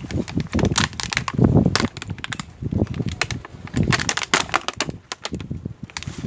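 Close-miked chewing of crisp raw fruit: repeated crunches with sharp clicks, in an uneven rhythm of about one to two bites a second.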